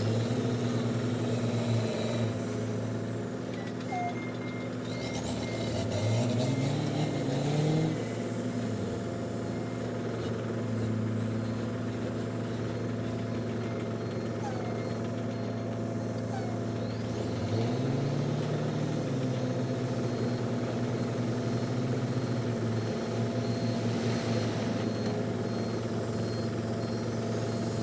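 Dump truck engine running, its pitch rising twice as it revs up, with a reversing alarm beeping in a steady repeating pattern.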